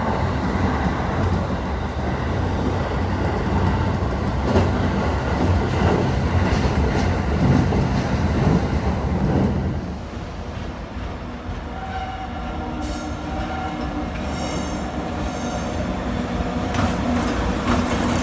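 Train running past on the rails: a heavy rumble with wheels clicking over rail joints, easing about ten seconds in to a quieter run with steady humming tones.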